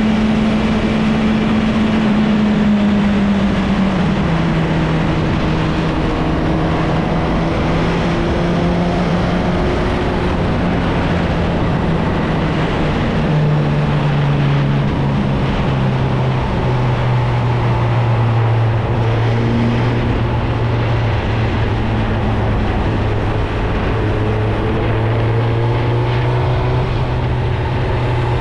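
Suzuki GSX-R1000 inline-four engine through its stock exhaust, running at a steady moderate pace with a rush of wind noise. Its note steps down in pitch three times, settling at a lower drone for the last ten seconds or so.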